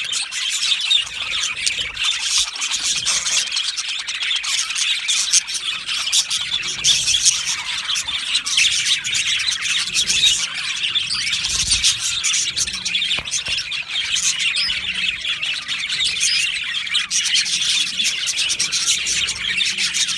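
A colony of budgerigars chirping and chattering, a continuous dense mix of many overlapping calls with occasional squawks.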